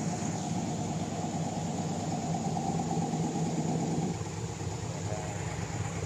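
A motor-vehicle engine idling: a steady low rumble that gets lighter about four seconds in.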